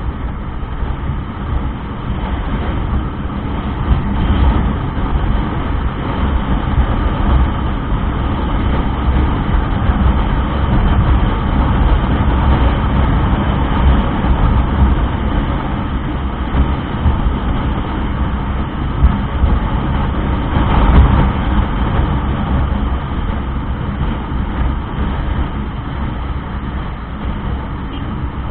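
Motorcycle riding noise: steady engine, road and wind noise, with a brief louder swell about two-thirds of the way through.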